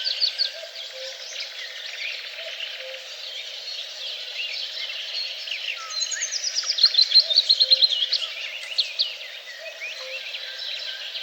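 Several songbirds singing and chirping together. About six seconds in, one bird sings a fast trill of repeated notes that steps down in pitch.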